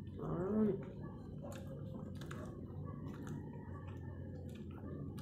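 Close-miked mouth sounds of chewing a soft, sticky chocolate moron rice cake, with wet squishy smacks and scattered small clicks. A short hummed 'mmm' rises and falls about half a second in.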